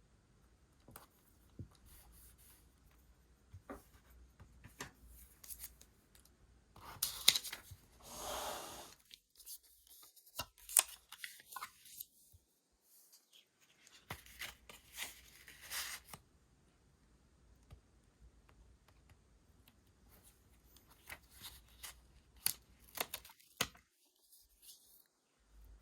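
Paper and stationery being handled for journal decorating: scattered light taps and clicks, with a few short spells of paper rustling, cutting or tearing, the loudest about a third of the way in.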